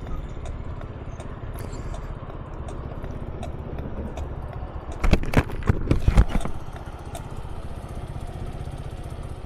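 A 125 cc motor scooter engine running steadily, with a cluster of loud knocks or buffets about five to six and a half seconds in.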